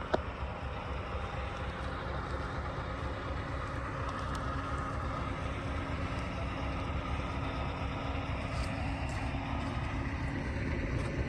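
Scania S730 truck's V8 diesel engine running steadily with a low rumble, with a single sharp click just after the start.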